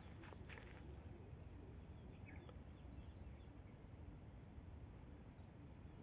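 Near silence outdoors: a low steady rumble with a faint, short high trill of a small bird heard twice.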